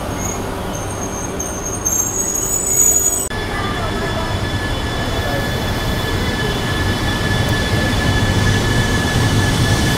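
Shinkansen trains at station platforms: for the first three seconds a train moving along the platform gives high-pitched running-gear squeals, then, after an abrupt cut, a steady high whine sits over a low rumble from a train standing or moving at the platform.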